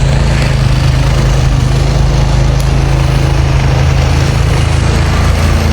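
An engine running steadily: a low, even hum under a constant hiss.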